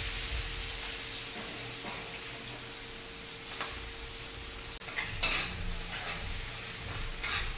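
Ground spice paste of shallot, garlic, candlenut and pepper sizzling steadily in hot oil in a wok, just added for sautéing. From about three and a half seconds in, a spatula stirs it, with a few scraping clicks against the pan.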